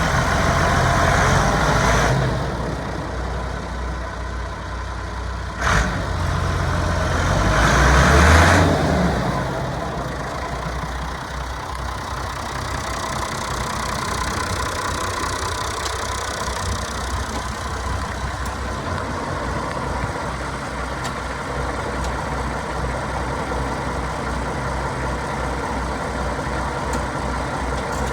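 Massey Ferguson 399 tractor's six-cylinder diesel engine running: at higher revs for the first two seconds, a sharp knock about six seconds in, revved up briefly around eight seconds, then idling steadily.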